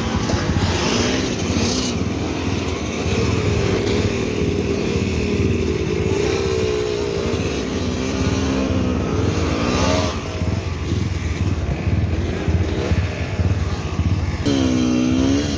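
Motorcycle engine running under way, its pitch rising and falling as the throttle is worked, with a sharp drop and climb in revs near the end.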